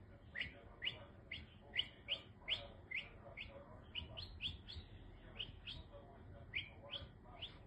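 Eurasian siskin giving a run of short, sweeping chirps, about two a second, with a brief pause about six seconds in.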